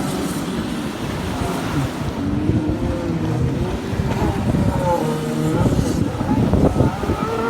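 Jet ski engines running and revving, their pitch rising and falling as the craft race, with wind buffeting the microphone.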